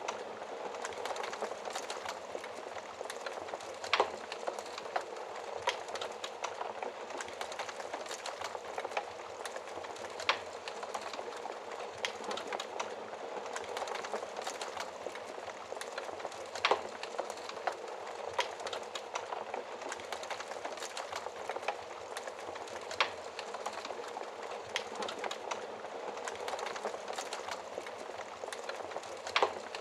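Wood fire burning with a steady hiss and constant small crackles, with a sharper, louder pop about every six seconds.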